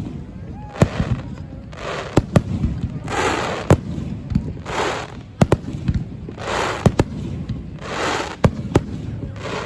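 Aerial fireworks display: many sharp bangs of bursting shells in quick succession, with a short hissing rush about every second and a half between them.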